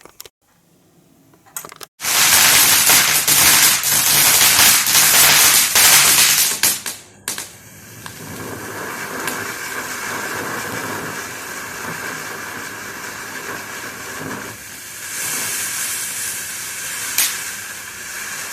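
Firework going off: about two seconds in, a sudden loud burst of dense crackling and hissing for some five seconds, which then settles into a steadier, quieter hiss, with one sharp crack near the end.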